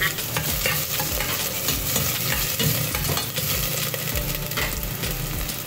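Sliced ginger sizzling in hot cooking oil in a stainless steel pot, stirred with a spoon that scrapes and clicks against the pot bottom.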